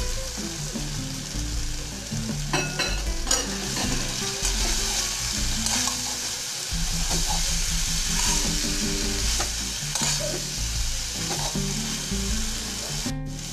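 Shredded cabbage and potatoes sizzling in a spiced masala in a metal kadai, stirred and tossed with a metal spatula that scrapes the pan now and then.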